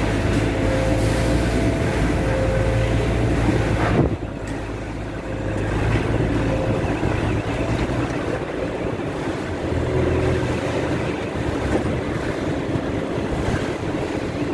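Excavator's diesel engine running, its note rising and falling as the load changes. The sound drops off abruptly about four seconds in and then builds back up.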